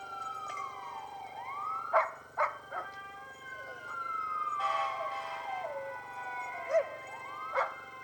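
Fire engine siren wailing in long falling sweeps, with a dog howling along and giving several short, sharp barks.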